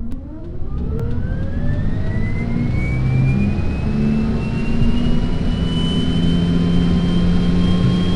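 Jet engine spooling up: a whine rising smoothly in pitch for about six seconds and then holding steady, over a loud, steady rumble.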